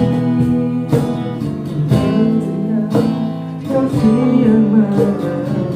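Acoustic guitar strummed, a chord about once a second, under a singing voice carrying the melody of a pop song.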